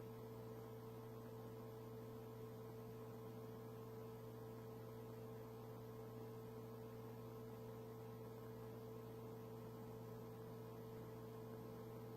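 Faint steady electrical hum with a light hiss, the background of the radio audio feed between transmissions.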